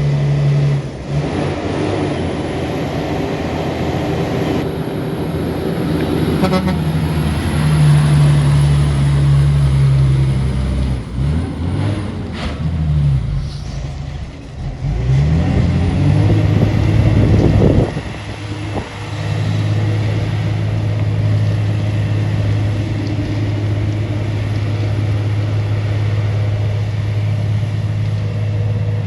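Heavy truck's diesel engine pulling hard up a steep hill under load. The engine note dips and glides around the middle, then holds steady for the rest.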